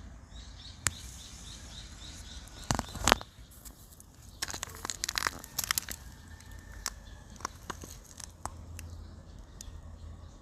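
Wind rumbling on the microphone, broken by sharp crackling rustles, loudest about three seconds in and again in a dense cluster a little later. In the first second and a half a small bird chirps a quick run of repeated notes.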